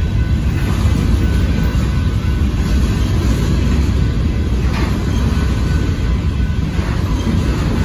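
Covered hopper cars of a freight grain train rolling steadily past a grade crossing: a continuous low rumble of wheels on the rails.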